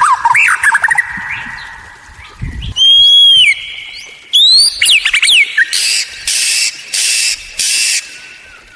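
White-rumped shama (murai batu) singing a varied song. It runs through slurred whistles and glides, a held high whistle about three seconds in, and then a run of four rapid, harsh buzzy phrases in the second half.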